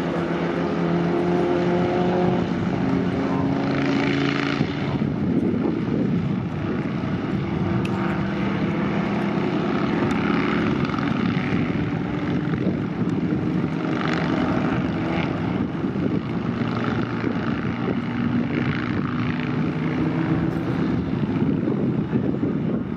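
Vintage racing car engines running hard as several cars pass in turn, loud throughout. Their pitch shifts over the first few seconds, then the sound turns into a rough, dense mix that swells and fades again several times as more cars go by.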